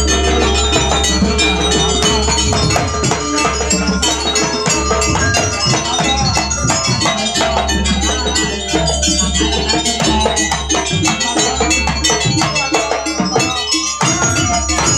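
Jaranan gamelan ensemble playing dance music: dense, quick drum strokes over ringing metal gong and bell-like percussion, continuous and loud.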